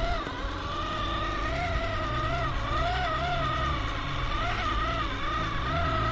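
Whine of an RGT EX86190 RC off-road truck's electric motor and gears, rising and falling in pitch as the throttle changes, over a low rumble of its tyres on rough ground.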